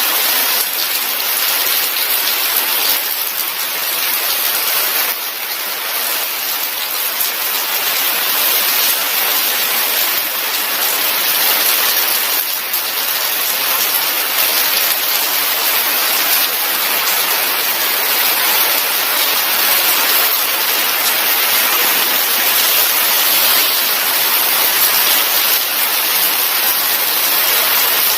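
Heavy tropical rain falling steadily, a dense even hiss of drops on surfaces, growing stronger.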